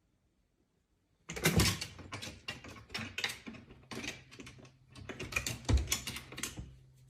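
A quick, irregular run of clattering knocks and scrapes, starting about a second in and lasting several seconds.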